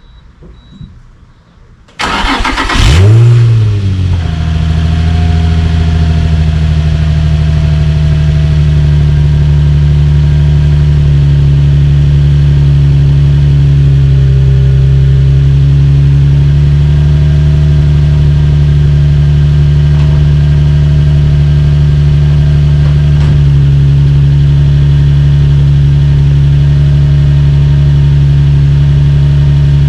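Infiniti G35's VQ V6 starting about two seconds in through a Nissan factory-option titanium exhaust. It flares briefly as it catches, then settles into a steady idle.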